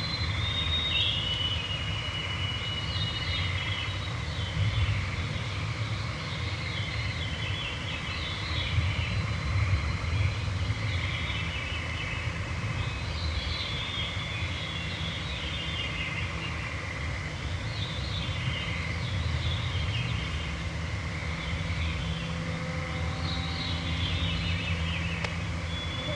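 Evening woodland chorus: songbirds repeating short high phrases every two to three seconds over a steady high trill, with a low rumble underneath.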